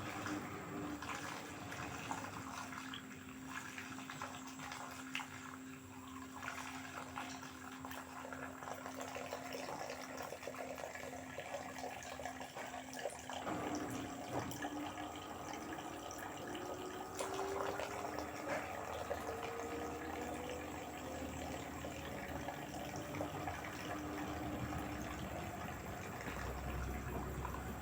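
LG direct-drive washing machine mid-cycle, with water rushing and splashing. A steady hum stops about 13 seconds in, and then a whine rises in pitch over several seconds.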